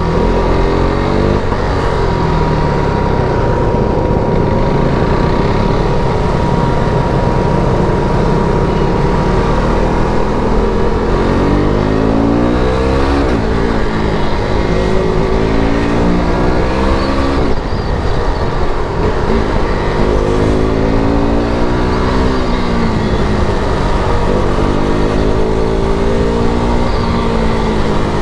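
KTM RC 390's single-cylinder engine on its stock exhaust, revving up and dropping back again and again as the bike accelerates and shifts gears, with heavy wind rush.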